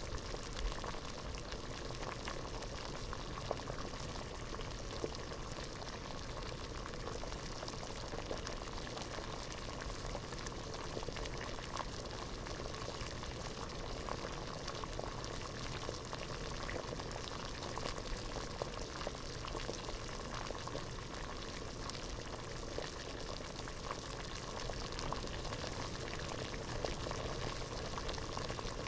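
Water boiling hard in a pot: a steady, dense bubbling with many small pops.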